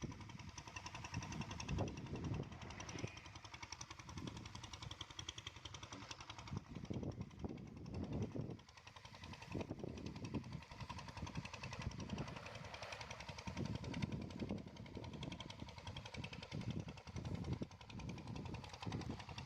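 A small engine running with a rapid, even knocking beat.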